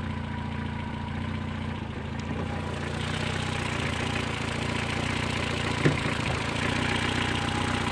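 Honda four-cylinder carbureted CVCC engine idling steadily, warm and running smoothly with no choke. It grows a little louder and brighter about three seconds in as the open engine bay comes close, and there is one short click about six seconds in.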